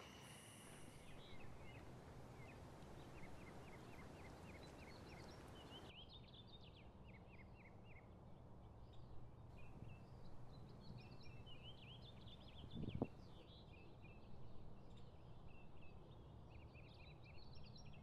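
Faint outdoor ambience with small birds chirping. It starts as a run of short repeated notes, then becomes a scattered chorus of chirps and calls after about six seconds. A single soft thump comes near the middle.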